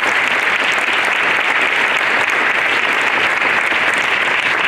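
Audience of schoolchildren clapping in steady, sustained applause.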